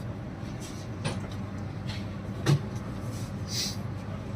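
Steady low hum of a train with a few knocks, the loudest about two and a half seconds in, and a short hiss near the end.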